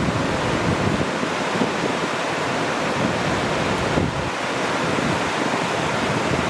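Ocean surf washing steadily, with wind buffeting the microphone in low, uneven gusts.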